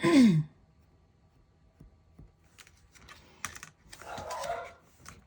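Light clicks, taps and rustling of paper and tools being handled on a table while a piece is measured and marked. At the very start a short sound slides down in pitch, and a soft rustle comes near the end.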